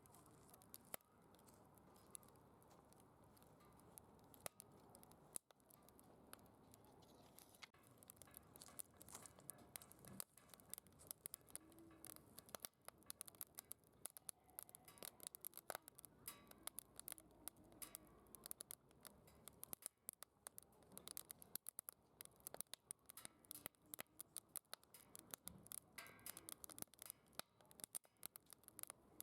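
Faint crackling of a wood campfire burning in a secondary-combustion fire pit: a steady stream of small sharp pops and snaps, denser in the second half.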